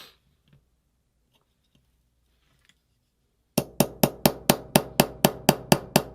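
Hammer tapping a pin punch to drive a resisting pin out of an Angel LCD paintball marker. The strikes come quick and even, about five a second, from about three and a half seconds in, and each one rings.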